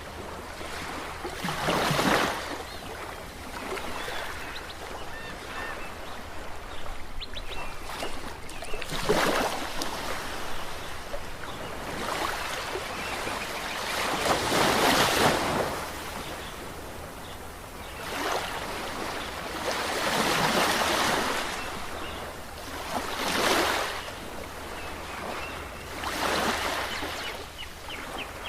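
Ocean waves breaking and washing up, rising to a crest every few seconds and then draining away, with six or so louder breakers.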